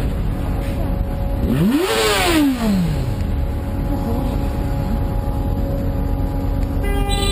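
Steady drone of vehicle and road noise. About two seconds in, a vehicle passes close by, its engine note rising and then falling. A car horn starts sounding just at the end.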